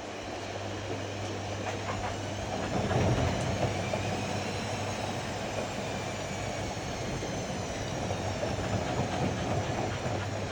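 Ariston AML125 washer-dryer running with a steady rumble and low hum, a faint motor whine rising and then falling in pitch partway through.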